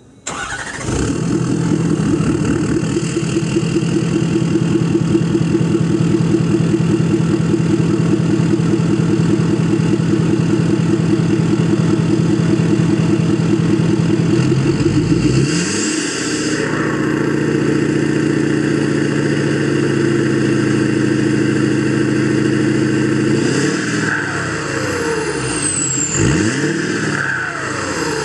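Ford 6.7 Powerstroke turbo-diesel V8 running loud through its straight-piped, DPF-deleted exhaust, held at a steady speed, then revved up and down several times near the end with a high whistle falling away after each rev.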